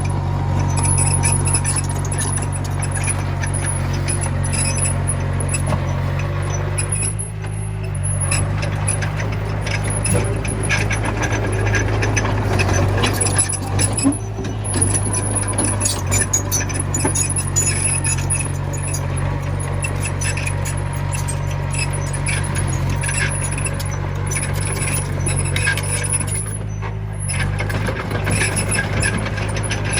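Komatsu mini bulldozer's diesel engine running steadily, with many short clanks from the machine as it works. The engine hum dips briefly twice, once a little past a quarter of the way in and once near the end.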